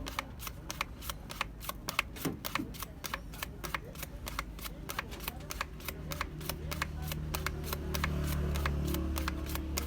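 Rapid back-and-forth hand scrubbing strokes on the microwave's metal casing, about four to five strokes a second. A low hum comes in under them partway through and grows louder near the end.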